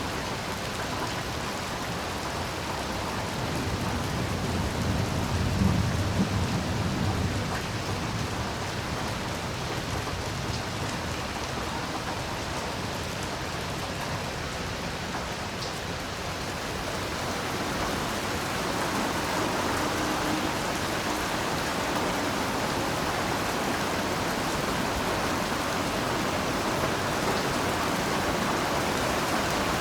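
Heavy rain falling steadily, with a low roll of thunder swelling and fading about four to eight seconds in. The rain grows slightly louder in the second half.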